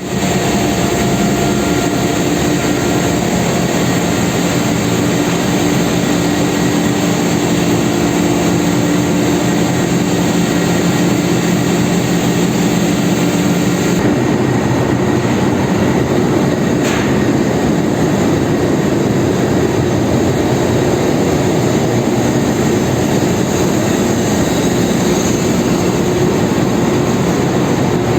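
Loud, steady machinery noise in a ship's engine room, with engines and auxiliary machinery running together. A steady hum is clear in the first half, then fades about halfway through, leaving a more even noise.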